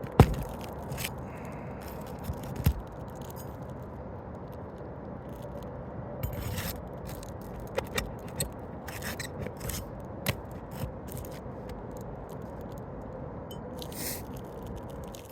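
A metal tool prying and scraping under asphalt roof shingles to break their seal strips and work the nails loose, with scattered sharp clicks and knocks, the loudest just at the start.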